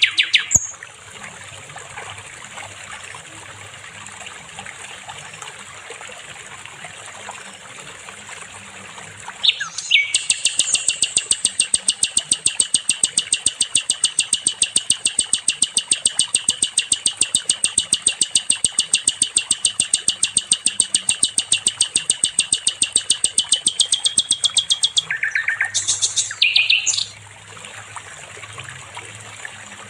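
Sikatan londo songbird singing: a few short high notes, then from about a third of the way in a long, rapid, even trill lasting some fifteen seconds, ending in a couple of brief phrases, over a faint hiss.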